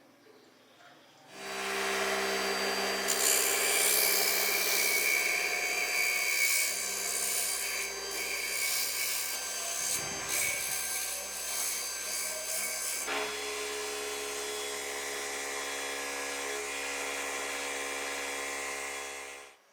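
A tool working on material, making a steady grinding, rubbing sound. It starts about a second and a half in, changes about two-thirds of the way through, and stops just before the end.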